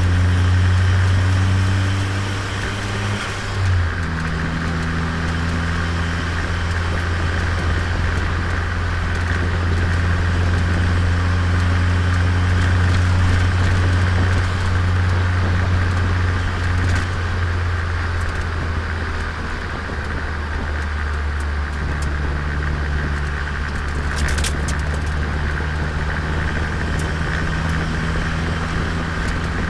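Turbocharged Nissan Micra engine running steadily while driving, heard onboard with road noise. The engine note steps down with a brief dip in loudness about three and a half seconds in, like a gear change, and shifts again about two-thirds of the way through.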